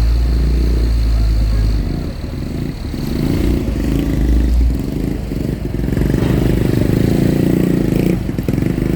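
Motor vehicle engines running as cars and trucks drive onto a ferry: a heavy deep rumble for the first couple of seconds, then a steady multi-tone engine drone from about six seconds in.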